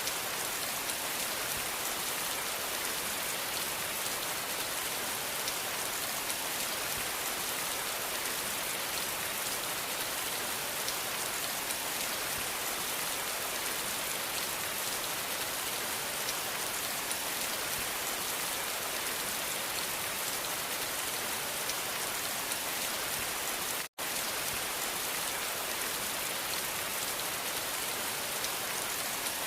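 Steady rain falling, a dense, even hiss of many drops. It cuts out for a split second about four-fifths of the way through, then carries on unchanged.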